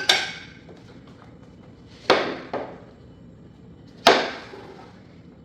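Three sharp knocks about two seconds apart, each with a short ringing tail, with a lighter knock just after the middle one: hard objects being set down or struck on a hard surface.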